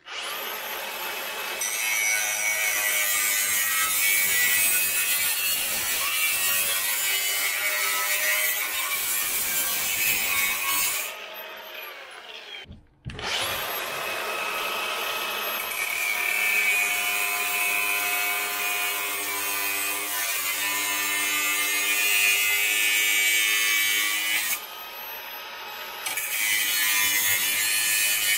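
A power tool cutting through the truck's exhaust pipe, running under load with a steady motor whine. It stops for about two seconds about eleven seconds in, then cuts again, easing off briefly near the end.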